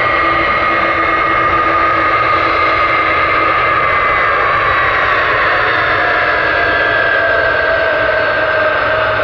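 Jet airliner's engines running loud, a whine in the engine noise slowly falling in pitch as the aircraft goes past.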